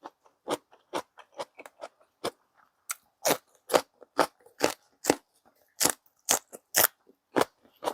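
Close-up chewing with sharp crunches, about two bites a second at the loudest stretch.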